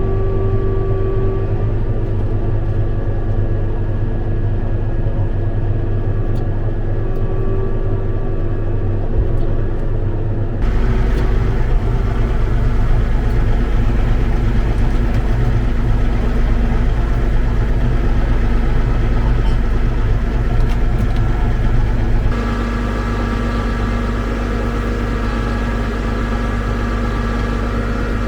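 Caterpillar Challenger track tractor's diesel engine running steadily, its tone changing abruptly about ten seconds in and again about twenty-two seconds in.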